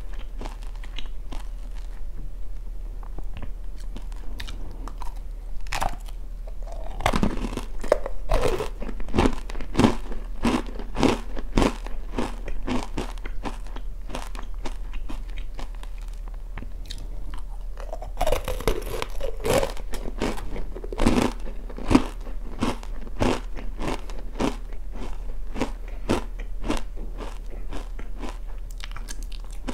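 Crunching and chewing of oranda, a Korean snack of puffed grains bound in hardened syrup, with many rapid crisp crunches. Heavier bites come about seven and about eighteen seconds in.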